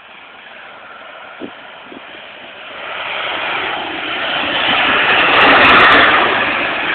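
Crop-duster airplane making a low fly-by: its engine noise swells steadily as it approaches, is loudest about five to six seconds in, then begins to fade.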